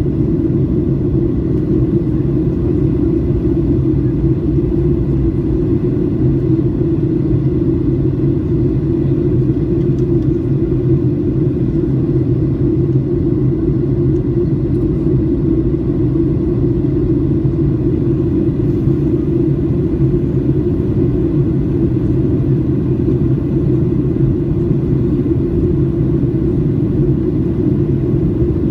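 Steady cabin rumble of a Boeing 737-800 in flight, its CFM56-7B turbofans and the airflow over the fuselage heard from a seat by the wing, low and even throughout.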